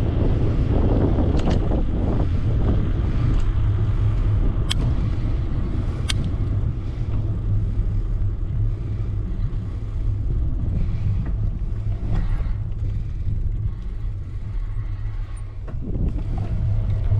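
Wind buffeting the microphone and road rumble from an e-bike under way: a loud, steady low rumble, with two sharp clicks about five and six seconds in.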